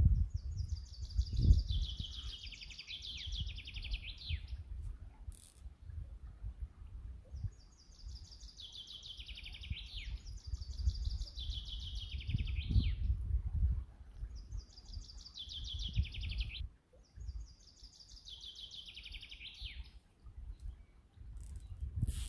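A songbird singing, repeating a short trilled phrase that drops in pitch about five times, each lasting around two seconds with short pauses between. A low rumble runs underneath.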